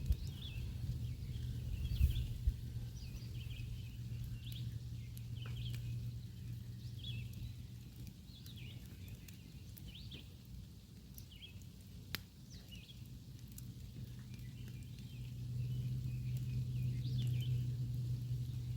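Small birds chirping again and again in short rising notes, about one a second, over a steady low hum that grows louder near the end. A couple of sharp clicks stand out.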